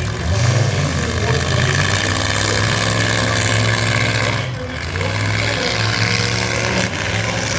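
Full-size demolition-derby trucks' engines running and revving, rising and falling in pitch for the first second or two, then holding steadier.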